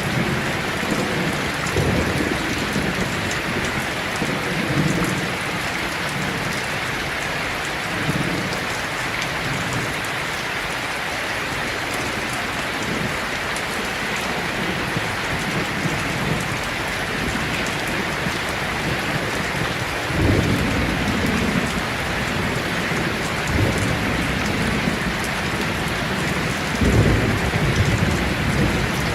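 Heavy rain drumming steadily on a tin roof, with low rolls of thunder coming and going; the strongest rumbles start about twenty seconds in and again near the end.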